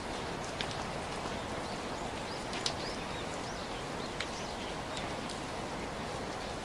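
Steady rainfall with occasional sharper drops landing close by.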